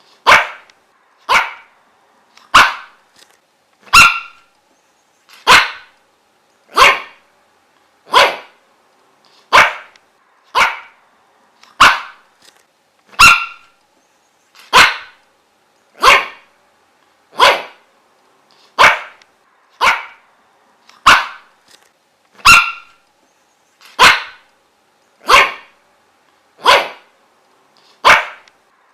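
A dog barking in single, sharp barks, repeated at a steady, even pace of about one every second and a half.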